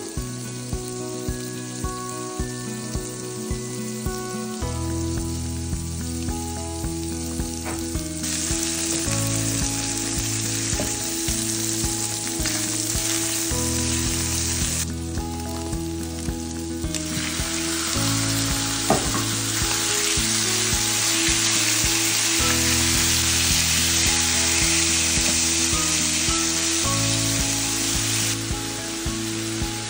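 Diced bacon and garlic sizzling in a frying pan as they are stirred; the sizzle comes up about eight seconds in and stays loud. Background music with a steady beat plays throughout.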